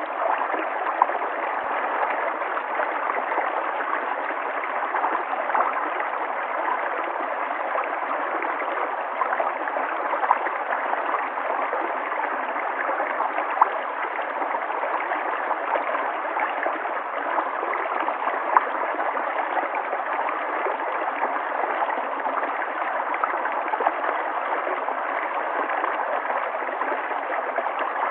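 River water flowing and gurgling steadily over stones, with small splashes and drips scattered through the rush.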